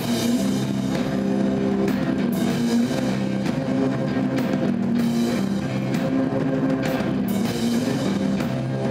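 Live rock band playing an instrumental passage: electric guitar notes held over a driving drum kit with regular cymbal and drum hits.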